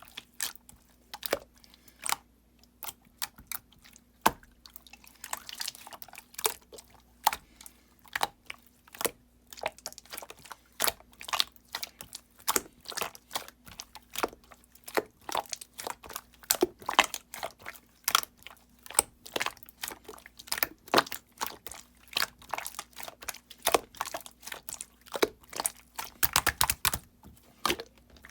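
Clear slime being pressed and stretched by hand, making irregular clicks and pops, a few each second.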